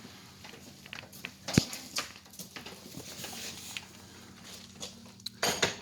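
Scattered light knocks and scuffs, with one sharp knock about a second and a half in and a louder cluster of knocks near the end.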